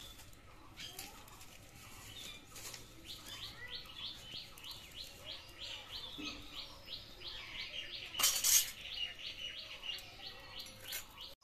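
A bird chirping in a rapid, even series of short high notes, about three a second, with a brief loud noise a little past the middle.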